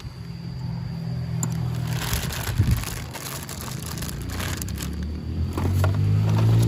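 Small electric motor of a model train running with a steady low hum that grows louder near the end, with some scraping clatter about two seconds in.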